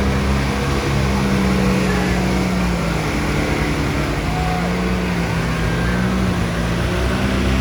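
Off-road 4x4 engines running hard as two vehicles race side by side, with the engine note sagging and picking up again as they work through the course.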